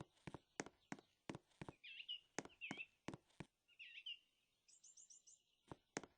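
Footsteps at a steady walking pace, about three a second, that stop just before two seconds in and start again near the end. While the steps are stopped, birds chirp, ending with a quick run of five high chirps.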